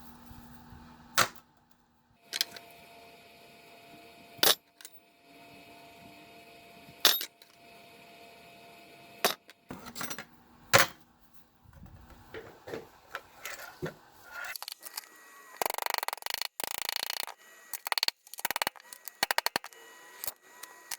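Sharp knocks and clicks, about six of them a couple of seconds apart over a faint steady hum, then a dense run of rapid clicking and rattling through the last few seconds.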